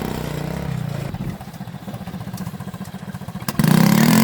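Small mini-tractor engine idling with an even, rapid beat. About three and a half seconds in there is a sharp click, and a louder engine cuts in, its pitch rising and falling as it revs.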